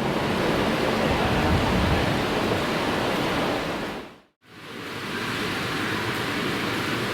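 Rushing noise of a Shinkansen train running at the platform. It fades out abruptly about four seconds in, then gives way to a steadier, quieter station hum.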